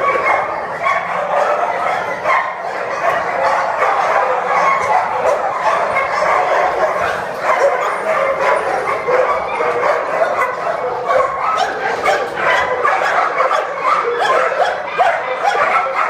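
A crowd of caged shelter dogs barking, yipping and whining all at once. Their calls overlap into a continuous din with no pause.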